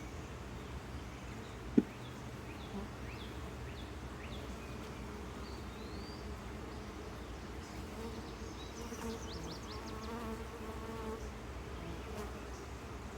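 Honey bees buzzing around an open hive during a frame inspection: a steady hum that swells a little past the middle. One sharp click about two seconds in stands out above it.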